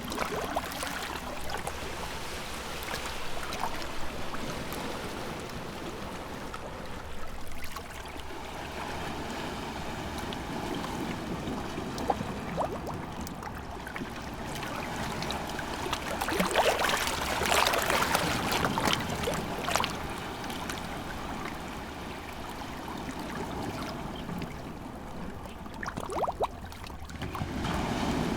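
Small sea waves washing and lapping against the shore, continuous splashing and trickling with a louder surge about halfway through.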